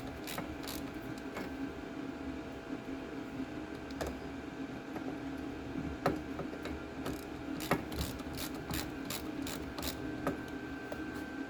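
Sharp metallic clicks and clinks from hand tools and brake parts being handled during front brake dismantling on a car, scattered irregularly with a quick run of them in the later part, over a steady low hum.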